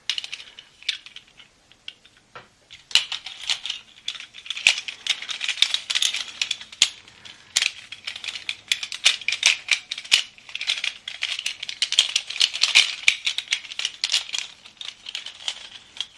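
Hard plastic Pez truck dispensers handled and clattering, a quick irregular clicking and rattling that starts in earnest about three seconds in and keeps going.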